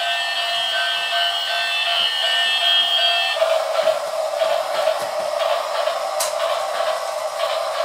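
Miniature electric train: a steady whistle tone for about the first three seconds, then the train running with a steady whirring hiss and light clicks.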